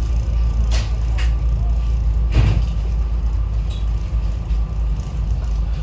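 SEPTA Regional Rail train running, a steady low rumble with three sharp clanks, the loudest about two and a half seconds in.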